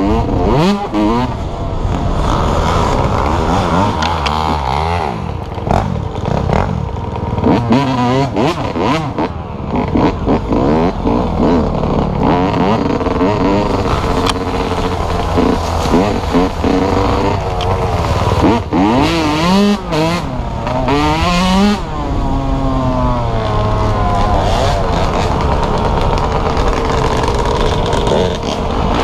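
Dirt bike engine running under way, its pitch rising and dropping again and again as the rider opens and closes the throttle.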